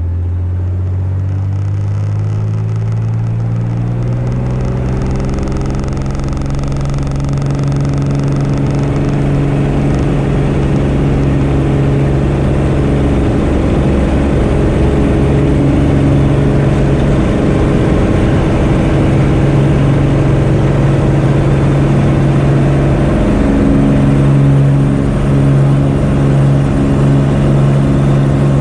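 Cessna 210K's six-cylinder piston engine and propeller going to full power for takeoff: the pitch rises steadily over the first few seconds as the throttle comes up, then holds as a loud, even drone through the takeoff run and climb.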